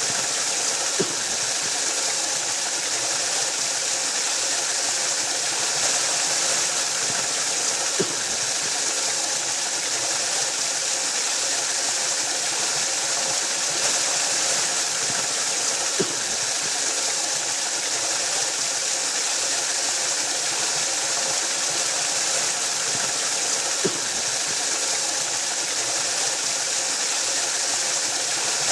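Waterfall rushing in a steady, even hiss, with a faint tick about every eight seconds.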